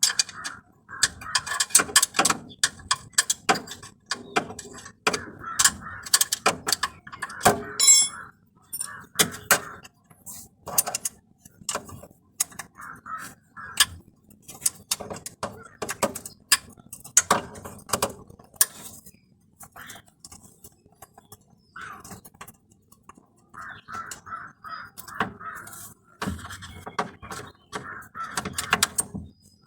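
Hand tools on metal, most likely a ratchet wrench undoing the starter motor's mounting bolts: repeated short rasping bursts of clicks, with clinks and knocks of metal between them.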